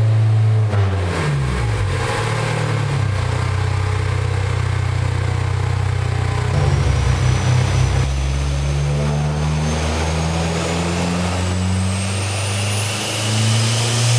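Turbocharged 2.4-litre four-cylinder of a Dodge Neon SRT-4 running on a chassis dyno. Its pitch drops about a second in, then holds and climbs again through the second half, as a thin high whistle from the large turbo rises steadily.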